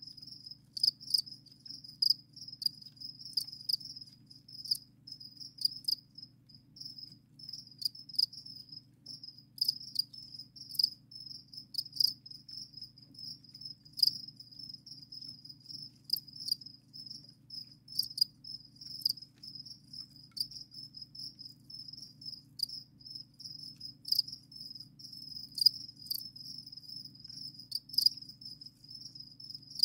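Crickets chirping continuously in a high, pulsing trill, with sharp clicks scattered throughout and a faint low hum underneath.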